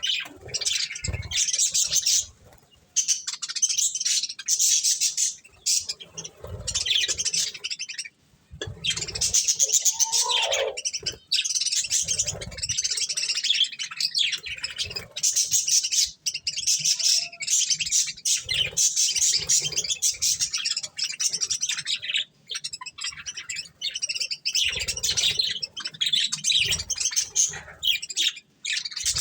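Budgerigars chattering and chirping continuously in fast, high-pitched warbles, broken only by brief pauses, with a few soft low bumps among them.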